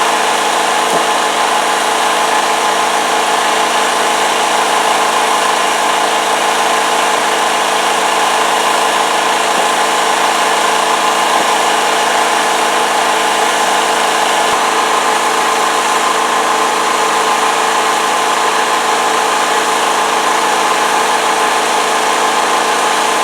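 Steady drone of a running motor, unchanging in pitch and level.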